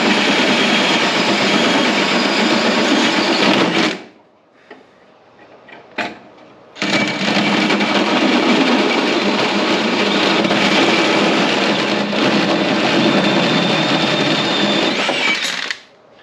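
Power tool cutting through a metal body panel: it runs, stops about four seconds in, blips once briefly, then runs again for about nine seconds before stopping near the end.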